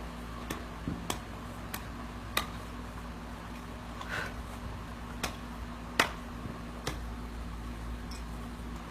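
Irregular sharp clicks and taps, roughly one a second and the loudest about six seconds in, over a low steady hum.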